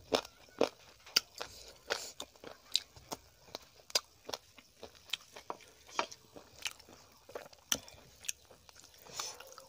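Close-miked eating: a person biting and chewing chicken curry and rice eaten by hand, with sharp crunches and wet mouth clicks coming unevenly, roughly two a second.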